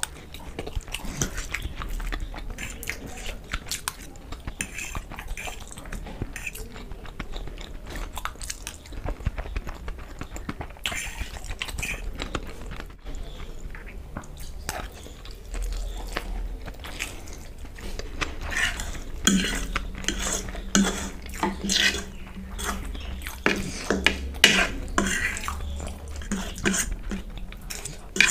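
Close-up eating sounds: chewing mouthfuls of fried masala Maggi noodles, with a metal fork clinking and scraping on the plate. The clinks come thicker and louder in the last third.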